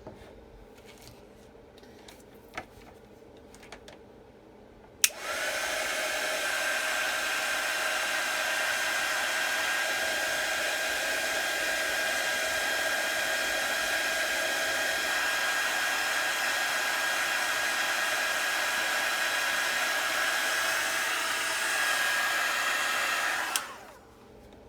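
Hair dryer clicked on about five seconds in, blowing steadily with a held high whine for about eighteen seconds, then clicked off; used to dry freshly applied chalk paste. Faint light taps come before it starts.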